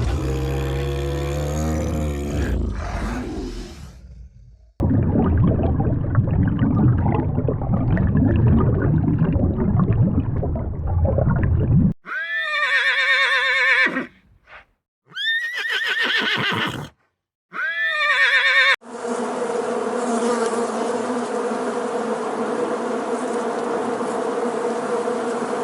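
A run of separate animal sound-effect clips: a deep call with falling pitch, then a long rough noisy stretch, then three short calls that start high and sweep down, and finally a steady buzz.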